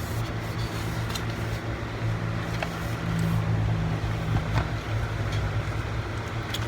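Steady low hum of a fan or room machinery throughout, with a few light clicks and taps from handling laptop parts during reassembly.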